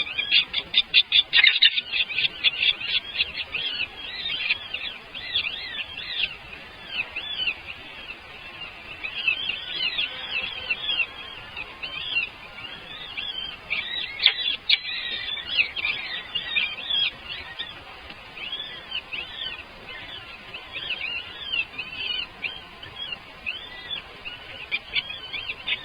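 Small birds chirping: many short, high calls in quick succession, densest and loudest in the first two seconds and then coming in scattered runs.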